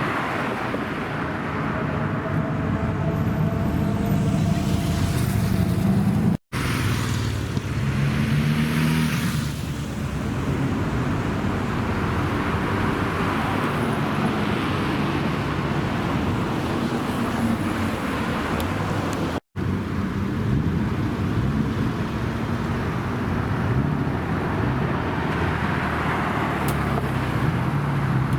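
Car engines running and being revved, their pitch rising and falling, over steady traffic noise. The sound cuts out abruptly twice, where one recording is spliced to the next.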